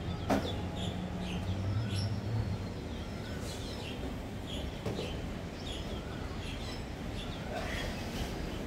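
Small birds chirping again and again over the steady low rumble of a garbage truck's engine, with a single sharp knock about a third of a second in.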